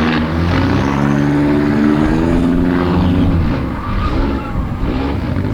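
Demolition derby car engines revving hard, the pitch wavering up and down and dropping off about three and a half seconds in before picking up again.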